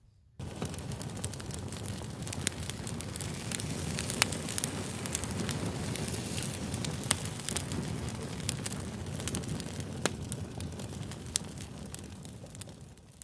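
Wood fire crackling: a steady low rush of flames with frequent sharp pops and snaps. It starts just after a brief silence at the very start and fades down near the end.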